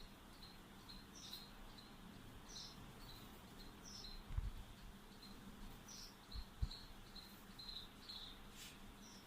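Small bird chirping faintly in a string of short high notes, about two to three a second, with an occasional higher note among them. A couple of low thumps about four and a half and six and a half seconds in.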